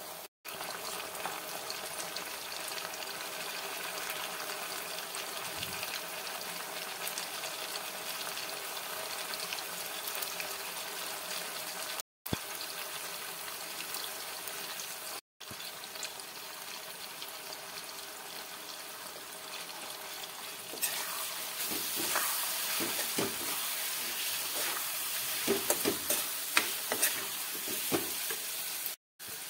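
Potatoes, onion and tomatoes frying in oil in a steel kadai, a steady sizzling hiss. In the last third the sizzle grows louder and a steel spoon stirs and scrapes against the pan with short clicks.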